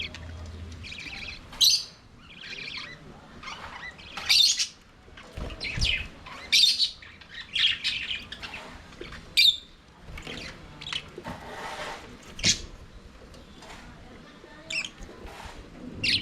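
A flock of budgerigars chirping and warbling, with sharp, high calls breaking out every second or so over a steady background chatter.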